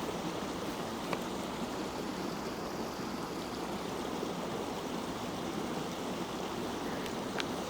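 A creek flowing steadily, an even rush of running water.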